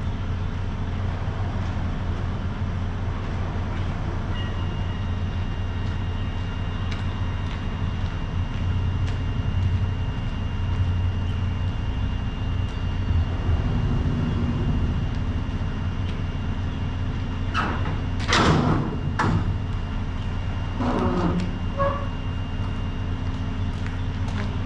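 Semi-truck's diesel engine running with a steady low rumble, with a few short, sharp squeaks and knocks about three quarters of the way through.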